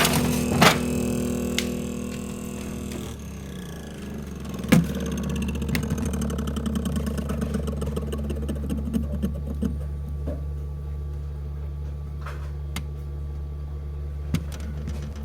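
Panasonic NR-BB53PV3XB refrigerator's freezer fan running with a steady low hum and a rough, fluttering rattle, with a few sharp knocks, loudest about five seconds in. The noise is the sign of the fault the owner describes: too little airflow and ice building up in the freezer, so the fan does not run properly.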